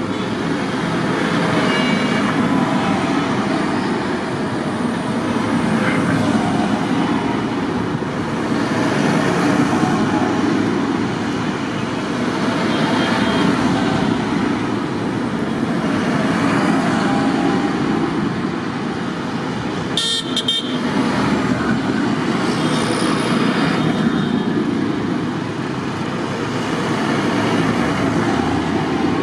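Tractor engines running as tractors pass one after another, the sound swelling and fading every few seconds. A brief sharp sound about two-thirds of the way through.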